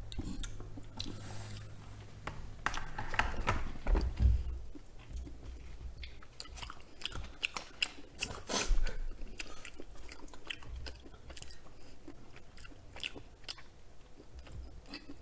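Close-miked eating sounds: people chewing truffle cream jjimdak noodles, with many small wet mouth clicks and a few sharper clicks, the loudest about four and nine seconds in.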